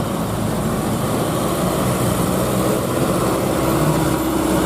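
Truck engine running with traffic noise around it: a steady drone with several pitches, growing a little louder near the end.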